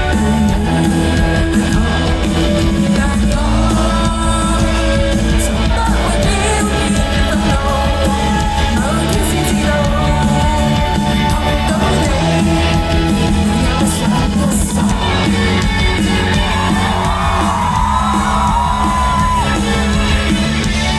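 Live band playing a song, with singing over it and some yells from the crowd in a large hall.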